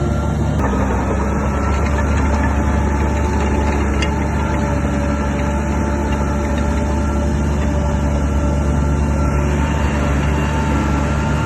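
Shantui DH17 crawler bulldozer's diesel engine running steadily and loudly, with a low rumble and a constant pitch.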